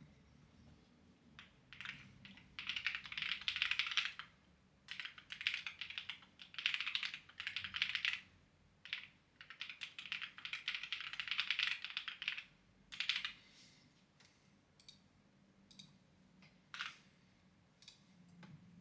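Clacky computer keyboard being typed on in quick bursts of keystrokes with short pauses between them, thinning out to a few scattered single key presses near the end.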